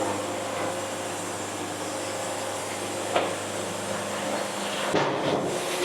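Band sawmill running steadily, a hum with a hiss over it; a single short knock about three seconds in.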